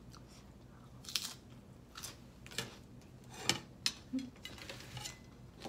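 A person chewing crunchy food close to the microphone: a string of separate crisp crunches and wet mouth clicks every half second or so.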